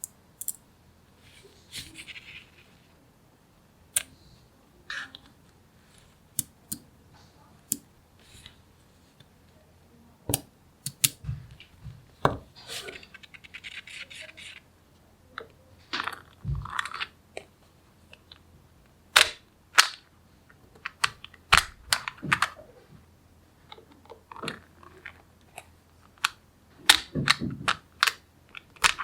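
Small magnetic balls snapping together with sharp clicks at irregular intervals, with two short stretches of rapid rattling as a cluster of balls is shifted or rolled.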